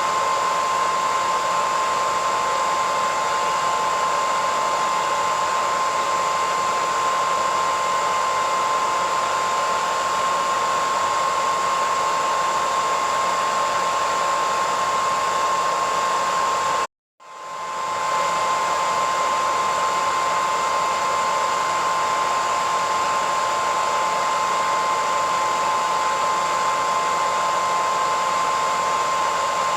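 Hair dryer running steadily: a continuous airy rush with a high whine on top. About 17 seconds in it cuts out for about half a second, then fades back up to the same steady sound.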